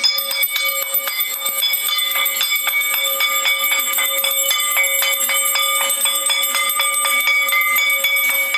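Metal hand bell rung rapidly and continuously, several strikes a second over a sustained ringing tone.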